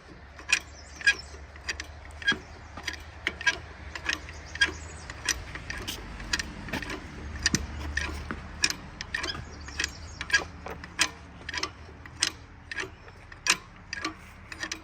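Sharp metallic clicks, roughly two a second and unevenly spaced, from tools or lifting gear being worked while the engine is pulled, over a low steady hum.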